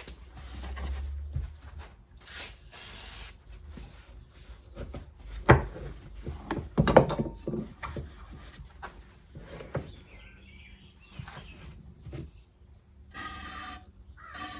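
Rubbing and scrubbing as a motorcycle fork part is cleaned of dirt, with two sharp knocks about five and a half and seven seconds in, and a short squeak near the end.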